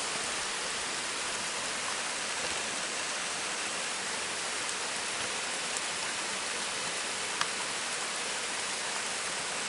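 Steady rushing of a mountain stream's flowing water, with a single faint tick about three quarters of the way through.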